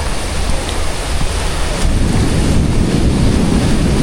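Heavy thunderstorm rain with wind noise on the microphone, a steady rushing; about halfway through, the deep part of the noise swells and stays louder.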